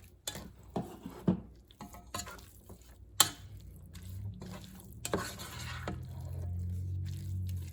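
A utensil clinks and knocks against a cooking pot as shredded chicken is added and stirred in, with several sharp knocks, the loudest about three seconds in. A low hum comes in about four seconds in.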